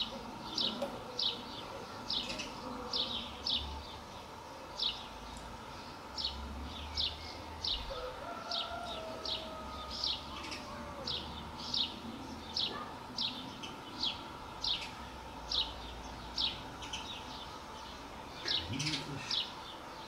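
A small songbird calling a short, sharp chirp over and over, about one to two a second, with a brief quicker run near the end.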